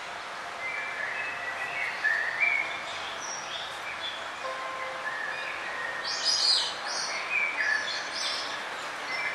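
Several small birds chirping and trilling over each other above a steady background hiss, with a louder cluster of high chirps about six seconds in.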